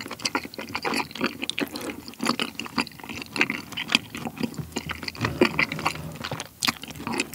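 Close-miked chewing of a mouthful of cream-sauce kirimochi with bacon and green chilli, mouth closed: a dense, irregular run of short sticky mouth clicks and smacks.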